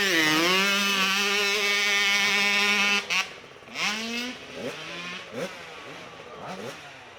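Motorcycle engine revving hard and held at high revs for about three seconds, then cut off suddenly; after that, quieter short blips of the throttle rise and fall.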